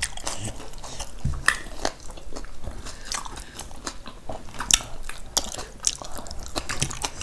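Close-up eating sounds: chewing and mouth noises with a run of short sharp clicks, as food eaten by hand is bitten and chewed.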